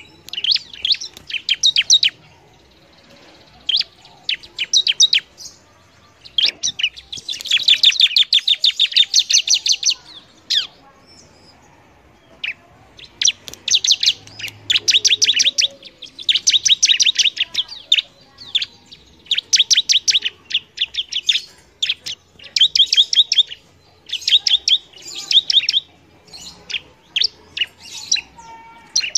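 Bar-winged prinia (ciblek) singing: bursts of rapid, sharp high chirps separated by short pauses, with one longer, faster run about seven seconds in.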